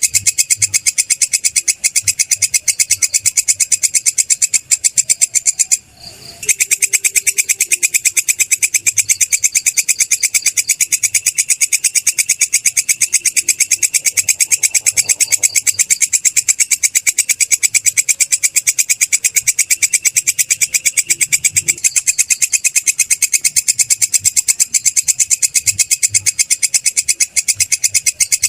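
Belalang kecek katydid calling in a fast, continuous, high-pitched pulsing trill, with a brief break about six seconds in.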